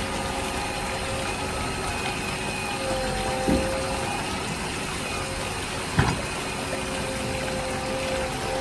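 Small DC motor water pump of a homemade toy car wash running steadily, with a faint whine over the hiss of moving water, and two light knocks a few seconds apart.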